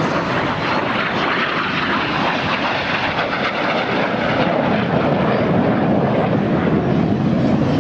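Jet engine noise from BAE Hawk T1 display jets flying overhead, a steady, unbroken rush.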